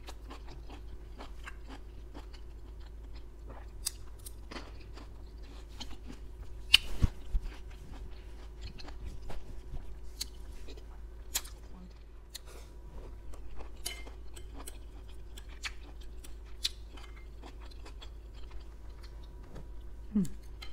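Close-up eating sounds of beef and broccoli with fried rice: chewing with many small wet mouth clicks and smacks, and a louder click about seven seconds in, over a faint steady hum.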